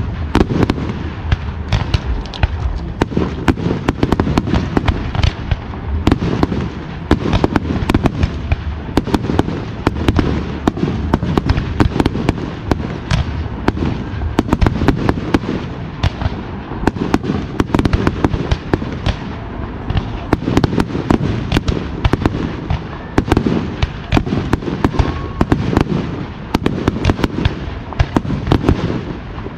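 Aerial fireworks display in a dense, unbroken barrage: many shell bursts and crackles a second over a steady low rumble.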